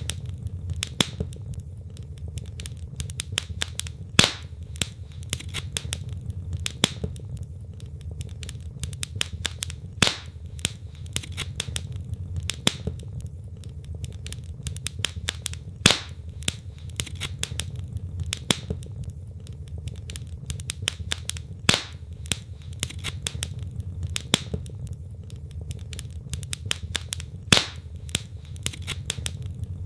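Wood logs burning in a fireplace: irregular crackles and pops, several a second, with a louder pop every few seconds, over a steady low rumble.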